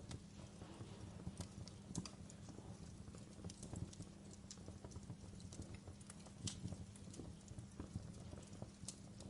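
Wood fire burning in a fireplace: a low steady rumble of the flames with irregular sharp crackles and pops from the burning logs, a few louder snaps scattered through.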